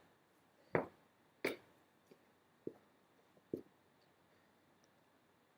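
Hand tools and parts being handled: two sharp knocks, then three softer clunks.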